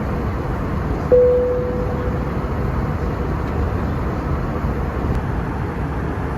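Steady airliner cabin noise of an Airbus A321 in flight. A single cabin chime sounds about a second in, one tone that fades away over about a second.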